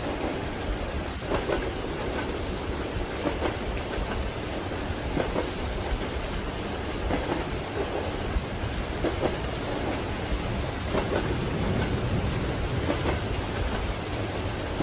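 Steady rain with a deep, continuous rumble underneath, part of a layered rain-and-train sleep ambience. Soft knocks and drips come through now and then at irregular intervals.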